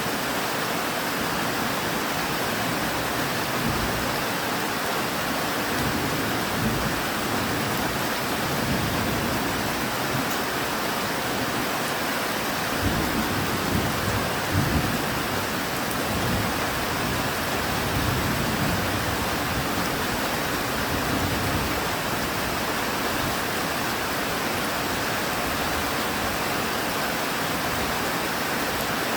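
Steady rain falling, with low rolling thunder rumbling under it through the middle stretch, strongest about halfway through.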